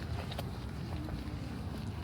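Wind rumbling on the microphone of a walking camera, with a few light clicks of footsteps on the path.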